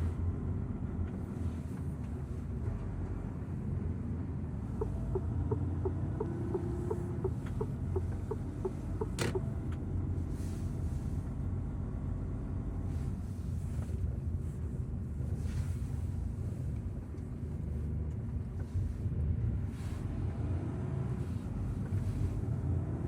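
Truck engine running steadily with a low rumble, heard from inside the cab. A few seconds in there is a run of short, evenly spaced ticks, about two or three a second, ending with a sharp click.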